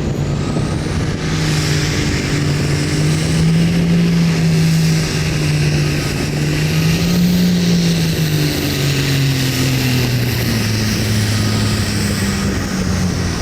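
Hot farm pulling tractor's diesel engine running hard at high revs under load. Its pitch climbs slightly and wavers, then falls away steadily over the last few seconds as the engine is pulled down.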